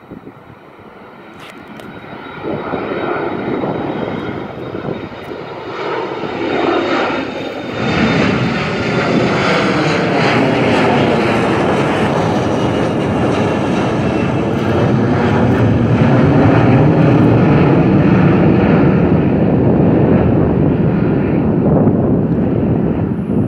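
Departing jet airliner's engines at takeoff thrust, building to a loud, steady rumbling roar as it passes close by. A faint high whine slides down in pitch as it goes past.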